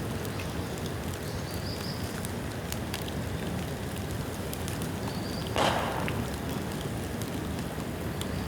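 Bamboo bonfire burning and crackling, with scattered sharp crackles and one louder pop a little past halfway.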